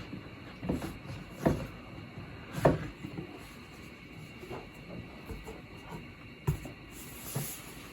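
Cardboard statue box being handled and opened: a few dull knocks and bumps of cardboard, the loudest about a third of the way in, then a short scraping rustle near the end.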